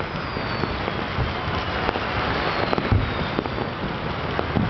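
Distant fireworks and firecrackers going off across the city: a dense, continuous crackle with three low booms, the loudest about three seconds in, and a few faint high whistles.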